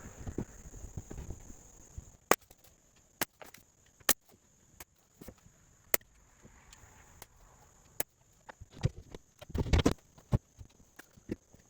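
Scattered sharp knocks and taps of wooden construction work, irregularly spaced, with a quick cluster of knocks near the end, over a steady high-pitched background hum.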